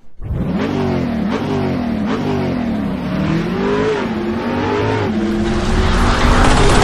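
A car engine revving in a series of quick rises and falls in pitch, then running steadier and getting louder toward the end.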